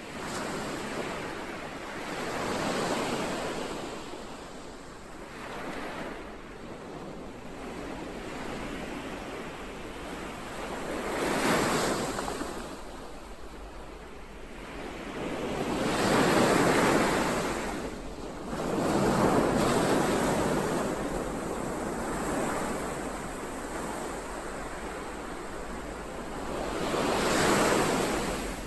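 Ocean waves breaking on a shore: surf surging and washing back in a loose rhythm, a swell every few seconds. The loudest surges come about halfway through and near the end.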